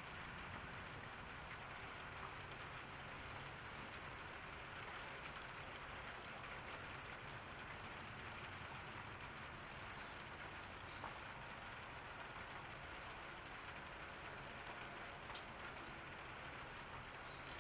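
Steady rain falling: an even, soft hiss, with a few single louder drops landing now and then.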